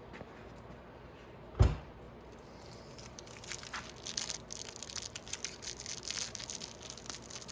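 A single dull thump, then a small plastic bag of hardware being torn off and crinkled in the hands for several seconds.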